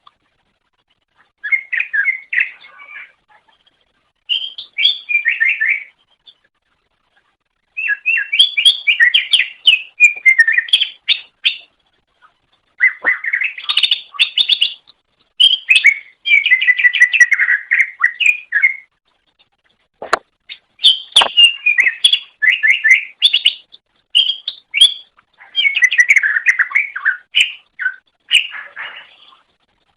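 Greater green leafbird (cucak ijo) singing in phrases of rapid, varied chattering and whistled notes, each one to three seconds long, separated by short pauses.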